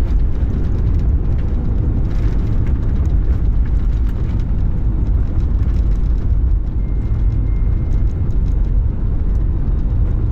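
Airplane during landing: a loud, steady low rumbling roar of engines and rushing air that holds level throughout.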